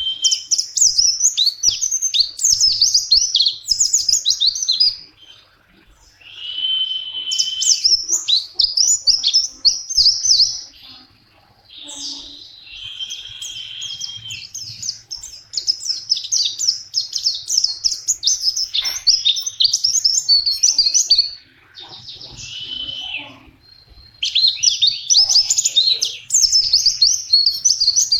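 Pleci (white-eye) singing: each phrase opens on a steady held whistle and breaks into fast, high twittering lasting several seconds. There are four such phrases, with short pauses between them.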